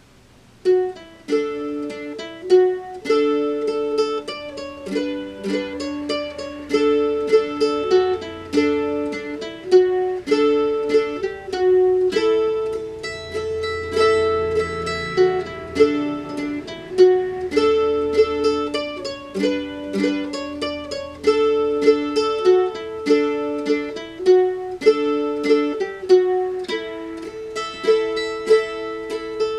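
A plucked string instrument playing a folk waltz, a melody of quick picked notes over a low bass, starting about a second in.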